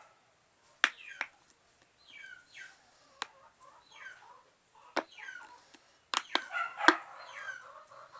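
Chickens clucking in a series of short calls that fall in pitch, with a few sharp clicks in between.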